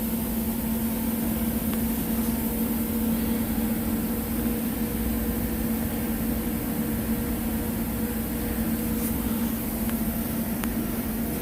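A steady machine hum with a constant low tone and a fainter higher one over an even noise, with a few faint clicks.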